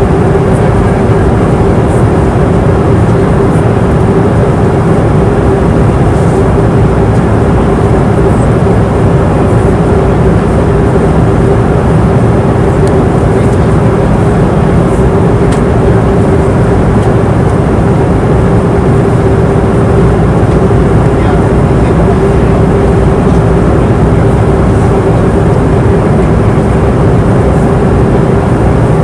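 Airplane cabin noise in flight: a steady, unbroken rush of engine and airflow noise with a deep rumble and a constant hum.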